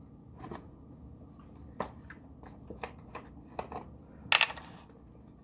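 Scattered light clicks and rustles from baking things being handled, with one louder, brief rustle about four seconds in.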